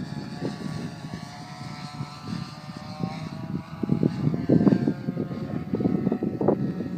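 Glow-fuel engine of a radio-controlled P-51 Mustang model plane droning in flight, its pitch drifting slightly as it flies past, with gusts of wind buffeting the microphone.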